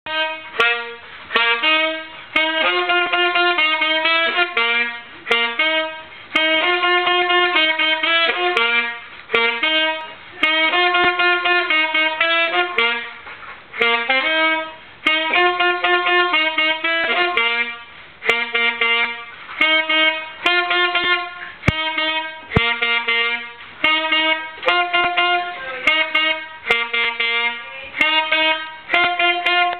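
A melody played on a brass-like wind instrument, in short phrases of held and stepping notes separated by brief pauses, with a few sharp clicks.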